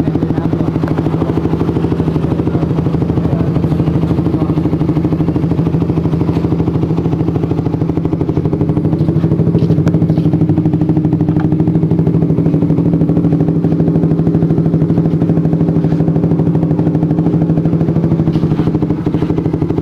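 Motorcycle engine idling steadily through an aftermarket SARP exhaust, with an even, fast-pulsing note. The bike is tuned with a SARP Cobra-series ECU.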